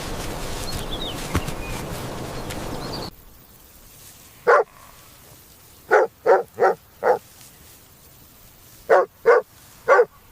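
A dog barking: eight short barks, one alone, then a quick run of four, then three. They follow a sudden cut from a steady outdoor hiss with a few faint high chirps.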